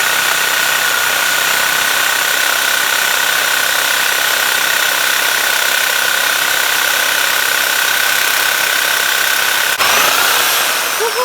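Power saw cutting through metal with a fresh blade, running steadily with a high whine, then stopping abruptly about ten seconds in as the cut is finished.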